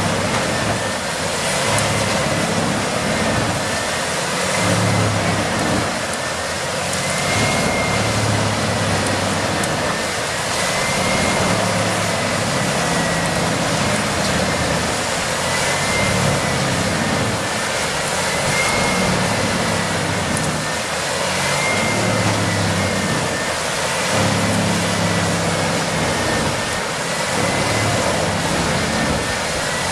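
Heavy machinery running loud and steady, its engine note swelling and easing every two to three seconds as it works under load.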